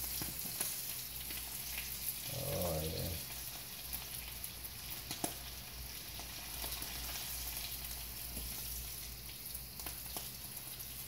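Sockeye salmon fillet frying in olive oil in a skillet: a steady sizzle, with scattered light clicks of a spatula against the pan.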